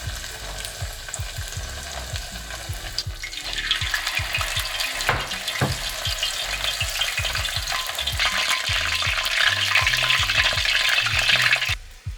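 Starch-coated pork pieces sizzling as they fry in hot oil for sweet and sour pork. The hiss swells about a third of the way in, is loudest near the end, and stops abruptly just before the end.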